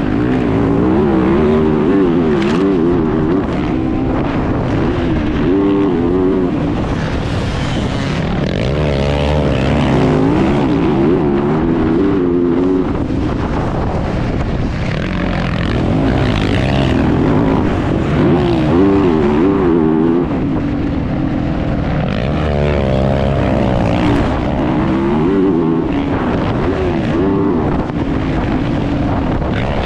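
Motocross bike engine racing, heard onboard, its pitch rising and falling again and again as the rider opens and closes the throttle through the track.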